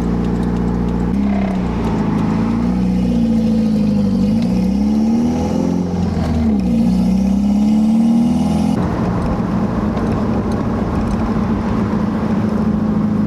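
Toyota 3S-GTE turbocharged four-cylinder with an open downpipe, heard from inside the car while driving. The engine pitch rises and falls through several gear changes, with a faint rising turbo whistle. It settles to a steady, loud drone near the end.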